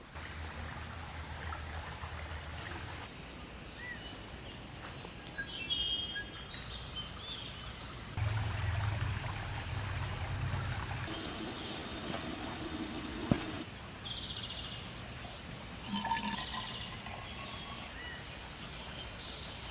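Outdoor ambience: a steady rushing noise with short bird chirps in two clusters, about a quarter of the way in and again past the middle. The background shifts abruptly twice.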